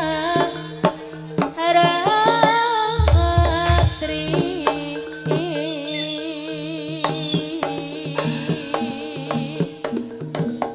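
Jaranan gamelan music: quick, sharp hand-drum strokes over sustained gong-like tones, with a high melody line that bends and wavers in pitch.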